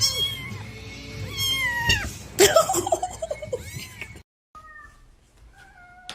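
Cats meowing: several calls that slide up and down in pitch, with a loud cry about two and a half seconds in. The sound cuts off abruptly partway through, and a few faint calls follow.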